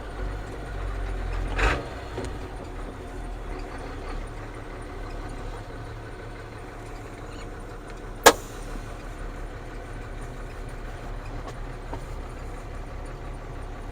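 Ford CF7000's 6.6L Brazil diesel engine running with a steady low drone. A short knock comes near two seconds in, and a single sharp click, the loudest sound, comes about eight seconds in.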